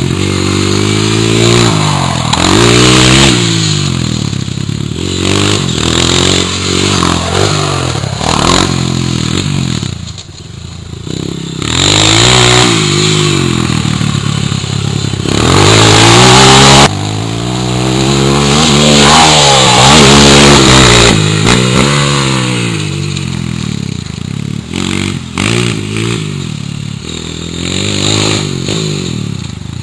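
Honda CRF230 dirt bike's single-cylinder four-stroke engine being ridden hard, its pitch rising and falling over and over as the rider accelerates, shifts and backs off the throttle. Loud rushes of noise come about twelve seconds in and again around the middle, the second one cutting off suddenly.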